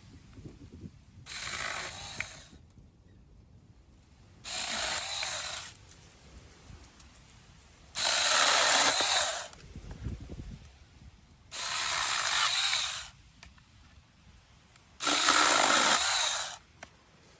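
Small cordless handheld chainsaw running in five short bursts of about a second each, a few seconds apart, as it cuts through small sticks.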